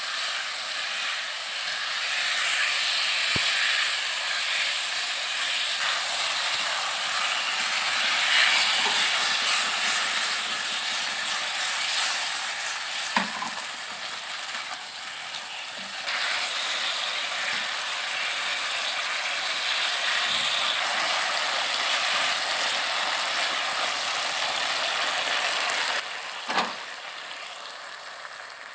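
Beef and tomato wedges sizzling as they stir-fry in a pan, with a wooden spatula scraping and tapping against the pan now and then. The sizzle drops away a couple of seconds before the end.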